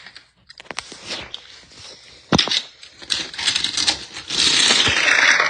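Hot Wheels die-cast toy cars being set off and racing down a plastic track: scattered clicks, a sharp clack about two seconds in, then a fast rattling run of wheels on the track that grows loudest near the end.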